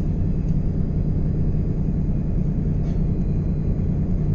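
Ship's engine and machinery giving a steady low drone while the vessel is underway.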